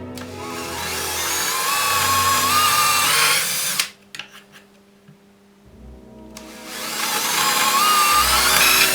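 NEMA 17 stepper motors driving the XY milling table: a whine that climbs in pitch as they speed up, runs for about three and a half seconds and stops abruptly. After a quieter gap of about two seconds, a second run starts, rising the same way.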